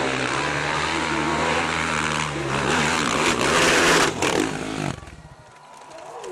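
Motocross motorcycle engine running and revving, growing louder toward about four seconds in, then cutting off abruptly about five seconds in.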